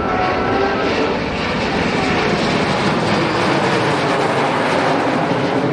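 Airplane engine noise from an aircraft flying at an air show, a loud steady rush.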